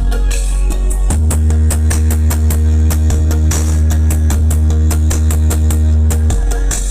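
Loud music played through a large sound system during a sound check: a very heavy sustained bass that steps up in pitch about a second in and drops back near the end, under a steady drum beat.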